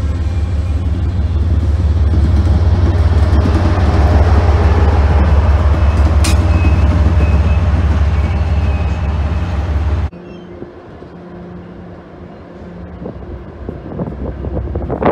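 A train passing close by: a deep steady rumble with rail and wheel noise that builds to its loudest about four to six seconds in. It cuts off suddenly about ten seconds in to a much quieter, low background.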